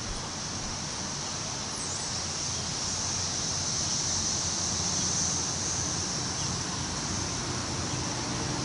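Wind rustling through the leaves of trees: a steady hiss that swells slightly. A brief high bird chirp comes about two seconds in. Near the end a low, steady mechanical hum comes in underneath.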